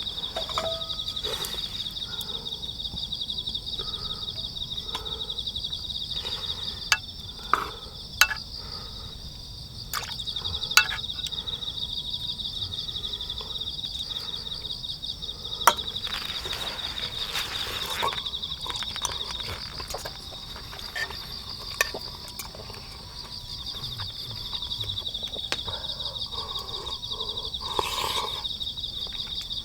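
Insects, likely crickets, chirping steadily in a fast, even trill, with scattered sharp clicks and knocks over it.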